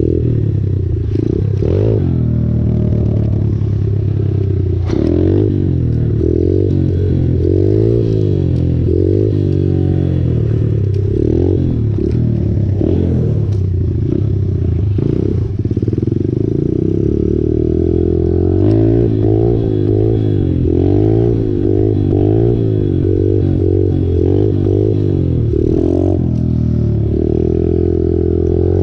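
Mini bike's small engine being ridden, its revs rising and falling over and over as the throttle is worked, with a steadier stretch partway through.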